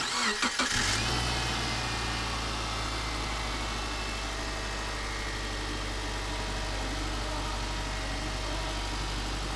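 Subaru Forester's flat-four boxer engine started with fresh oil: the starter cranks for about a second, then the engine catches and settles into a steady idle.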